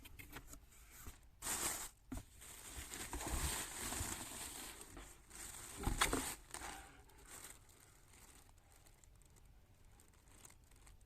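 Crinkling and rustling, as of paper or plastic being handled, in uneven bursts over the first seven seconds, then quiet.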